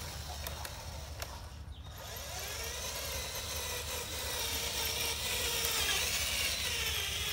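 Small electric gear motor whining as it turns the lead screw of an RC dump truck's tipping system, its pitch wavering and growing louder from about two seconds in.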